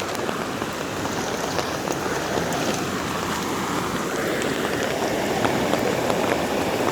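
Steady rushing hiss of rain and moving floodwater.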